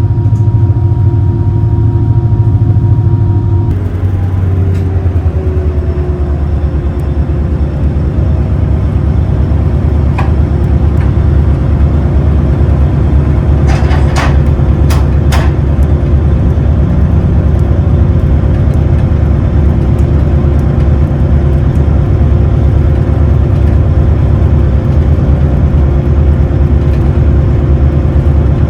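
Engines of the Super Jet Miyajima high-speed passenger boat running at speed: a loud, steady low drone with a steady hum over it. The sound shifts about four seconds in, and a few sharp knocks come about halfway through.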